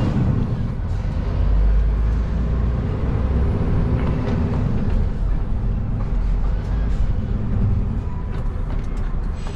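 HGV lorry's diesel engine running steadily, heard from inside the cab, with road noise.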